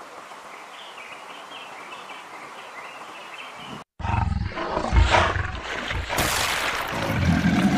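A faint steady hiss with soft, high chirps. After a short break about four seconds in, a jaguar growls and roars, low and loud, in uneven rises and falls.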